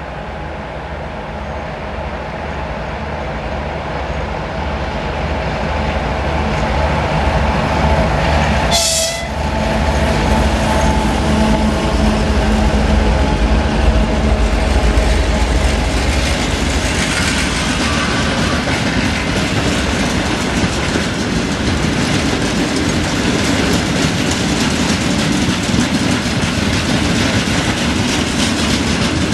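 2TE10M diesel locomotive approaching under power, its engines growing louder until it passes about nine seconds in, with its horn sounding as it comes by. Then a long freight train of hopper and gondola wagons rolls past, wheels clacking over the rail joints with some squeal.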